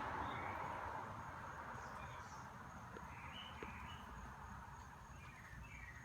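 Songbirds chirping in short, scattered calls over a faint, steady high insect drone, with the noise of a passing vehicle fading away in the first second.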